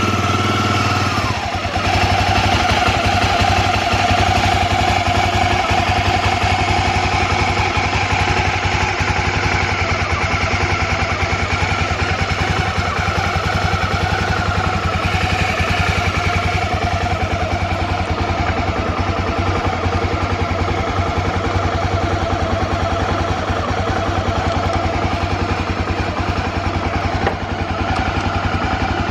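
A Honda XL250 Degree's air-cooled single-cylinder four-stroke engine idling steadily, its firing pulses even. The seller judges it free of abnormal noises.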